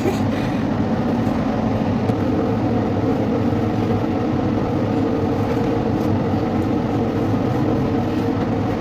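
Steady rumble and hum of a passenger train running, heard from inside it.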